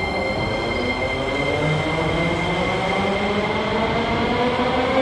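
Metro train pulling away, its motor whine rising steadily in pitch as it gathers speed, over steady high-pitched squealing tones from the wheels and running gear.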